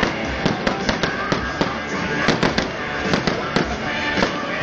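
Fireworks display: a rapid, irregular string of sharp bangs and crackles, several a second.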